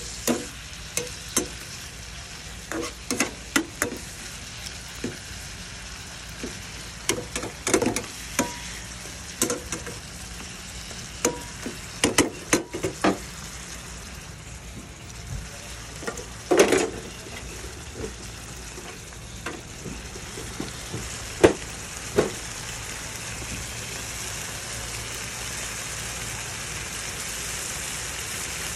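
Garlic shrimp sizzling in oil in a nonstick frying pan. A plastic spatula stirs them, with frequent clicks and knocks against the pan through the first two-thirds. After that there is only a steady sizzle, growing a little louder near the end.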